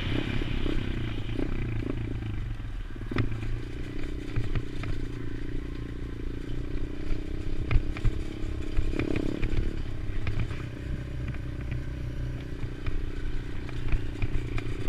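Pit bike's small single-cylinder engine running while being ridden, with uneven pulses at first and a fairly steady pitch from about four seconds in. Scattered clicks and knocks come through over the engine.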